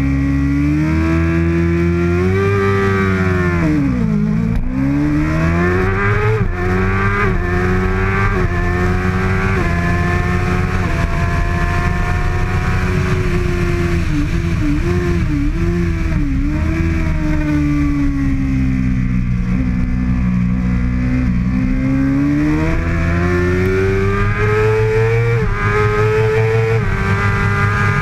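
A 2013 Kawasaki ZX-6R's 636 cc inline-four at racing speed, revving up through the gears and dropping in pitch under braking and downshifts. There is one sharp drop about four seconds in and a quick run of several dips about halfway through, then the revs climb again near the end.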